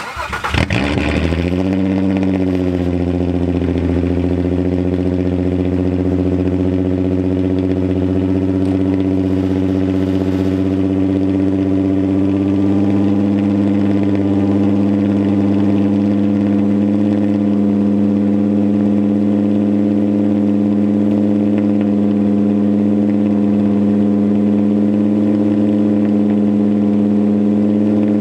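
Volkswagen Mk4 GTI's VR6 engine cold-starting through a straight-piped exhaust, with only the factory header and catalytic converter left. It catches at once, flares up briefly, then settles into a loud, steady idle.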